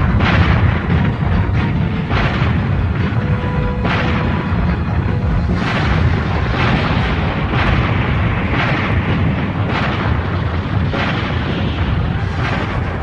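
Animated space battle sound effects: starship cannons firing and explosions going off about once a second over a heavy, continuous rumble, with background battle music.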